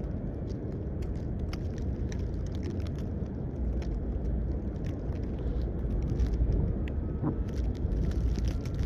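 Outdoor snowstorm ambience: a steady low rumble, with scattered faint ticks through it, growing a little louder near the end.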